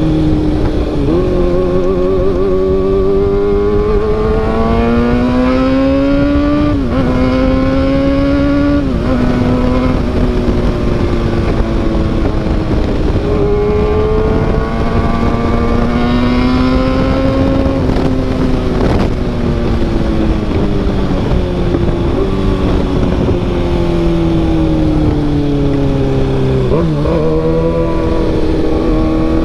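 Kawasaki ZX-6R inline-four sport bike running through an SC-Project CRT carbon exhaust while ridden. The engine pitch climbs under acceleration and drops suddenly at upshifts several times, then falls slowly as the bike slows, before climbing again near the end.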